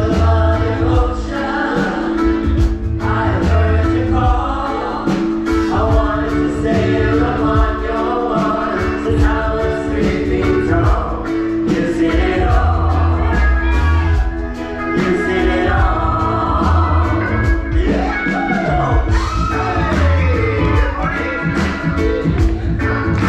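Live band music with several voices singing together over a steady beat: a show's opening number.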